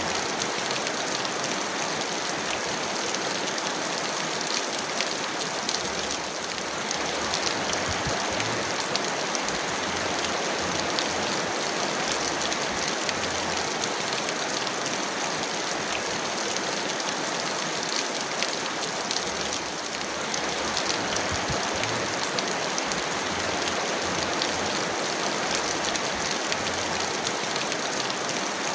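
Heavy rain falling steadily, a dense even hiss with a patter of individual drops ticking through it.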